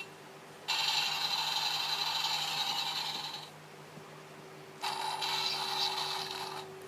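A sound effect played through a toy sound book's small speaker: two long hissing noises, each starting and stopping abruptly, the first about three seconds long and the second about two, with a faint steady electronic hum underneath.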